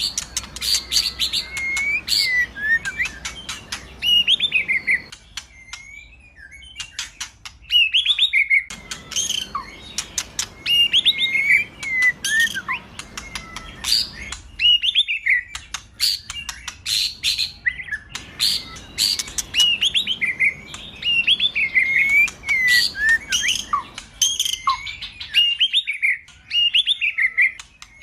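White-rumped shama (murai batu) singing: bursts of whistled, sliding phrases mixed with rapid, sharp clicking notes, broken by a few short pauses.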